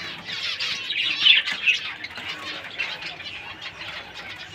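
A room full of small Australian finches calling together: a constant chatter of many short, high chirps overlapping one another.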